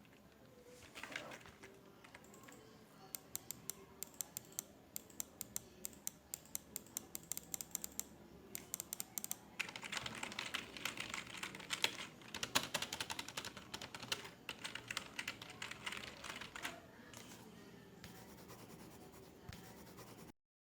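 Computer keyboard typing in runs of quick keystrokes, heaviest through the middle of the stretch. The sound cuts out briefly just before the end.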